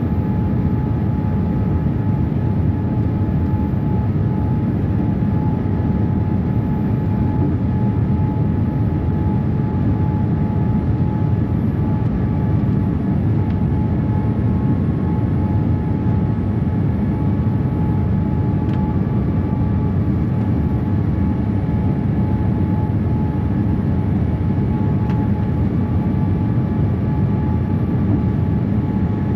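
Steady cabin noise inside a Boeing 787-8 airliner: a constant rumble of engines and airflow with a thin steady tone riding on it.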